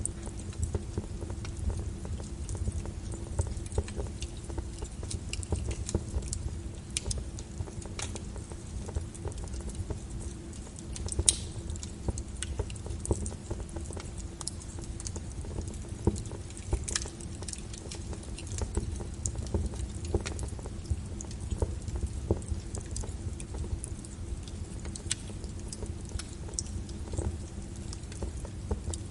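Wood fire burning in a fireplace: irregular sharp crackles and pops over a steady low rumble of the flames, with one louder pop about eleven seconds in.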